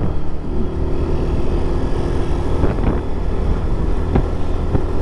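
Suzuki Shogun SP 125's single-cylinder four-stroke engine running as the motorcycle is ridden, with wind noise on the microphone. Its pitch rises a little about half a second in, then holds steady.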